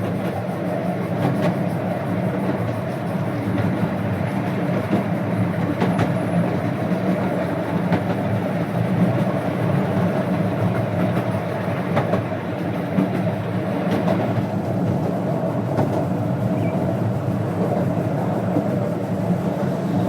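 A 12-inch gauge steam locomotive and its train running along the track: a steady running noise with a few sharp clicks here and there.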